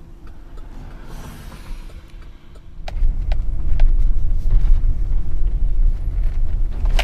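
Truck driving with its trailer in tow, heard from inside the cab. A low road rumble jumps up sharply about three seconds in and carries on loud and uneven, with scattered rattles and knocks.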